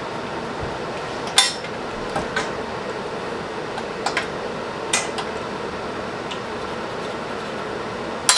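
Scattered sharp metallic clinks and taps of metal parts and tools being handled, about seven in all, the loudest near the end, over a steady background hum.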